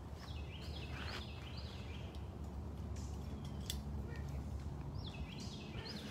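A songbird singing a short phrase of quick down-slurred notes, twice about five seconds apart, over a steady low rumble, with a single sharp click about midway.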